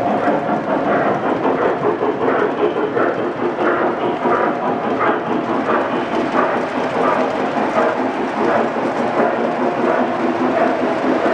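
O-gauge Williams EMD E7 model diesel locomotive pulling passenger cars along layout track. Its motor and gears hum steadily, and the wheels click over the rail joints about twice a second.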